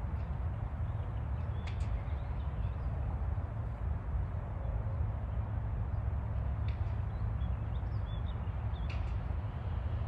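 A steady low rumble, with a few short, high bird chirps: once about two seconds in, and again near seven and near nine seconds.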